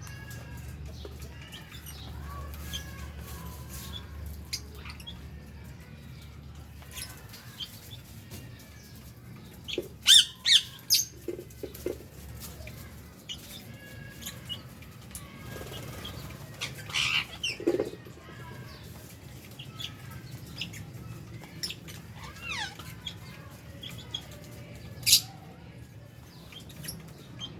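A flock of lovebirds and budgies chirping and squawking in short, scattered calls, with the loudest bursts about ten, seventeen and twenty-five seconds in. A steady low hum runs underneath.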